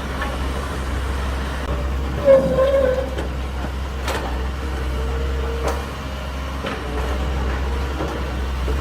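Wheeled excavator's diesel engine running steadily while its hydraulic nipper works in place of a breaker. A short, loud squeal comes about two seconds in, a longer fainter tone in the middle, and a couple of sharp cracks.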